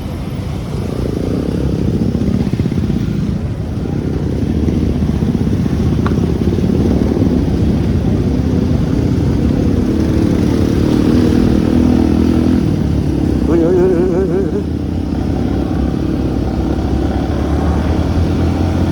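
Motorcycle engines running steadily together.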